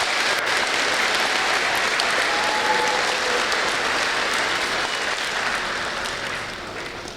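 An audience applauding steadily, fading near the end.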